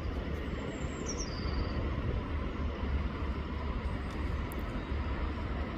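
Steady riverside ambience of flowing water with a heavy low rumble underneath, and one short, high, falling bird chirp about a second in.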